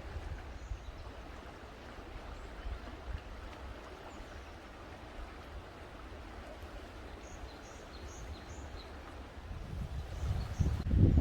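A stream running steadily, with a few faint bird chirps in the second half. A low, uneven rumble grows louder near the end.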